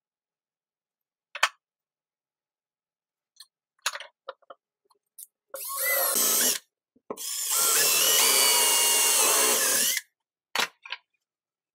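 Handheld power drill running in two bursts, a short one and then one of about three seconds, its pitch sagging and recovering as it takes load. Short knocks and clicks of handling come before and after.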